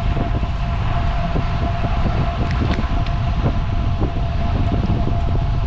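Wind buffeting the microphone of a road cyclist on the move, a steady rumble with a thin steady hum and scattered small ticks over it.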